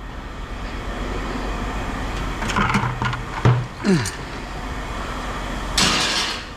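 Steady low engine-like hum with a few clattering knocks partway through, a short falling squeal, and a brief rustling burst near the end.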